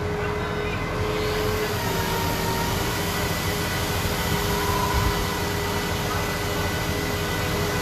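Machinery running steadily: a dense mechanical noise with thin whining tones, turning brighter and more hissing about a second in.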